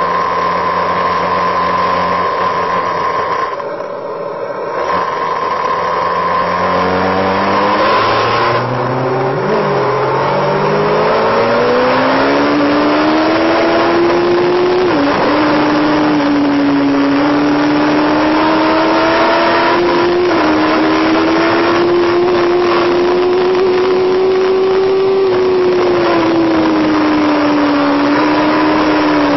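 Motorcycle engine accelerating: its pitch climbs steadily for several seconds, then holds at high revs with small rises and dips as it runs on.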